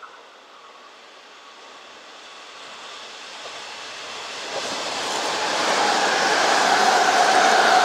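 Kintetsu electric train approaching, growing steadily louder over several seconds. Over the last few seconds a steady pitched whine rises over the rolling noise.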